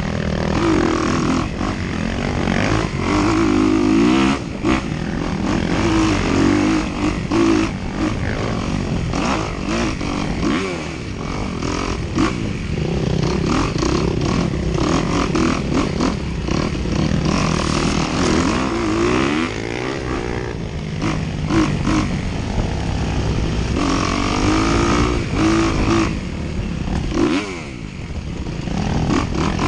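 Dirt bike engine racing under load, the revs rising and falling constantly as the throttle is worked, with frequent short knocks over rough ground.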